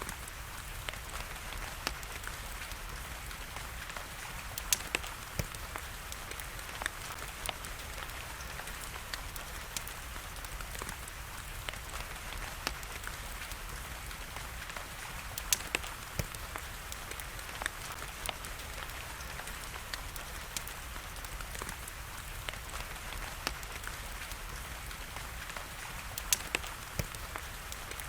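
Steady hiss of rain mixed with the irregular sharp crackles and pops of a fire burning in a fireplace, a few pops standing out louder than the rest.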